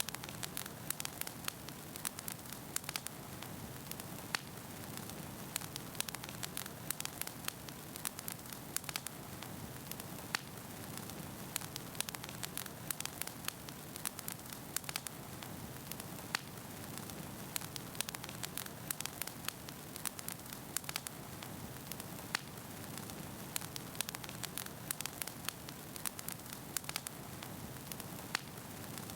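Wood fire burning in a fireplace: a steady low rush of flames with many small, irregular crackles and pops from the burning logs.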